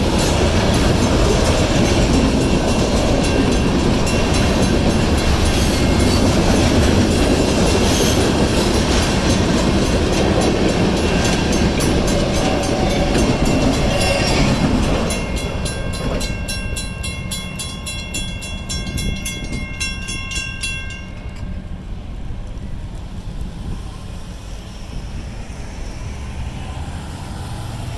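Union Pacific train rolling past over the grade crossing with a loud rumble and clatter of wheels on rail, which drops off suddenly about halfway through as the last car clears. The crossing's mechanical warning bells then ring on in a steady rhythm, stop about three quarters of the way through, and leave a low fading rumble.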